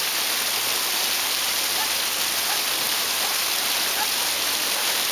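Massive rain downpour: a steady, even hiss of heavy rain falling.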